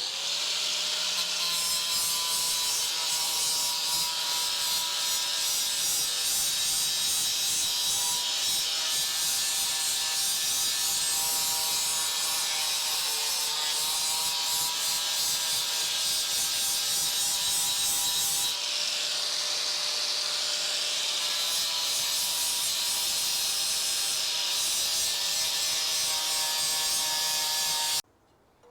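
Electric grinder grinding surface rust off a steel exhaust pipe to clean it for welding: a steady motor whine with a harsh abrasive hiss. The pitch sags briefly about halfway through as it is pressed harder, and the grinder stops shortly before the end.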